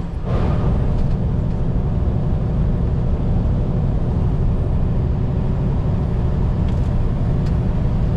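Semi-truck driving at highway speed, heard from inside the cab: a steady low engine and road rumble, with a couple of faint ticks near the end.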